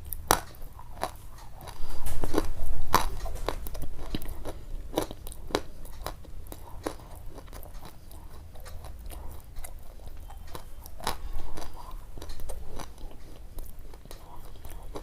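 Crunching: a run of irregular sharp crunches and clicks, louder about two to three seconds in and again about eleven seconds in.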